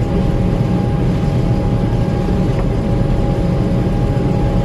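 Gleaner M2 combine running steadily under load while harvesting corn: a constant low drone of engine and threshing machinery with a steady high whine over it.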